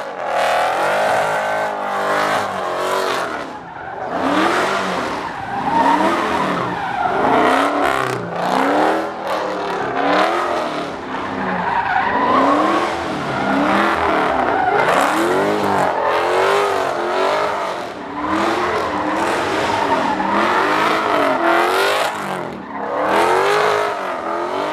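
Car engine revving hard, its pitch rising and falling over and over about every second and a half, with tyres squealing and skidding.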